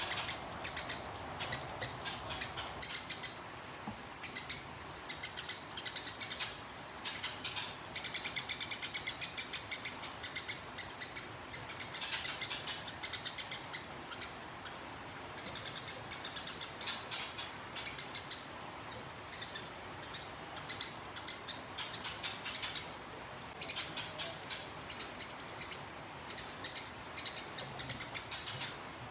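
'Gereja tarung' sparrow chirping in fast, rolling runs of high-pitched notes, in bursts of a few seconds with brief gaps, the rapid chattering style used in songbird tutor recordings.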